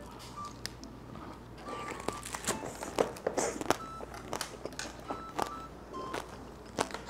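Crunching of a candied whole tangerine (tanghulu) as it is chewed in one mouthful: the hard sugar coating cracks in a run of sharp, irregular crunches.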